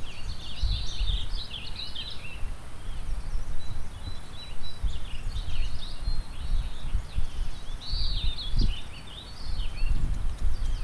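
Several songbirds singing and chirping over one another, with a thin, high held note twice. Underneath, wind gusts unevenly against the microphone as a low rumble, over a steady rush of river water.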